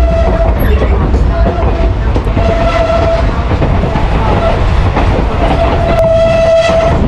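Durango & Silverton narrow-gauge train in motion: a heavy, steady low rumble from the rolling cars, with a high steady tone that comes and goes several times, longest near the end.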